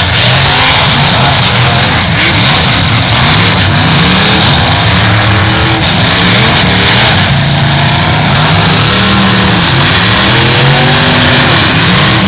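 Several V8 demolition derby cars revving hard all at once, their engine notes rising and falling over one another, very loud throughout.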